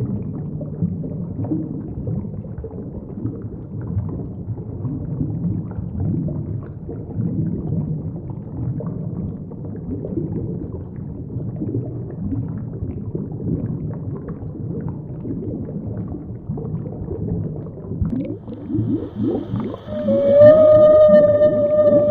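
Underwater marine animal sounds: a dense low rumble of short pulses, then about twenty seconds in a loud, held, steady tonal call with several overtones.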